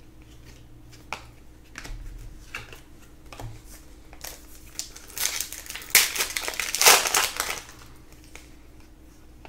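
Trading-card pack wrapper crinkling as it is torn open, with light clicks of cards being handled. The crinkling is loudest from about five to seven and a half seconds in.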